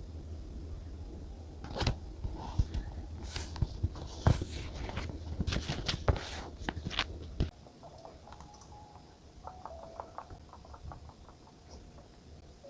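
Paper and stationery handled on a desk: a run of sharp clicks and crackles lasting about six seconds. It stops abruptly, and faint plinking mallet-like background music follows.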